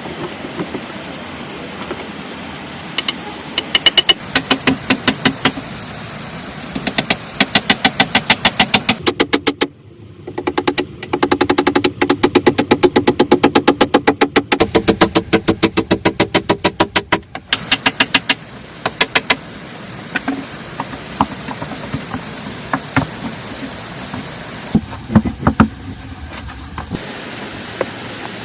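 Fast runs of sharp knocks, several a second, that stop about two thirds of the way through and give way to scattered single knocks, over a steady hiss.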